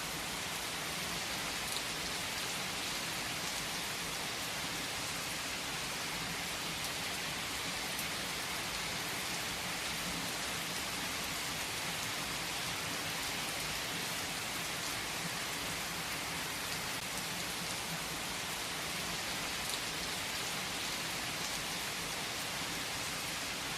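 Steady rain falling, an even hiss of many drops with no change in strength and no thunder rumble.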